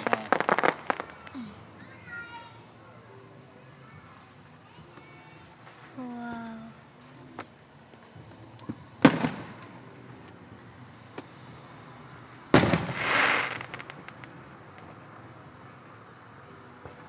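Fireworks exploding nearby: crackling dies away in the first second, then a sharp bang about nine seconds in and another about twelve and a half seconds in, the second followed by a second of crackle. Steady cricket chirping runs underneath.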